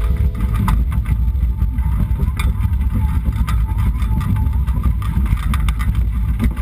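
Wind buffeting the microphone of a GoPro camera mounted on a sailing Hobie Trifoiler, a loud steady low rumble with scattered short knocks.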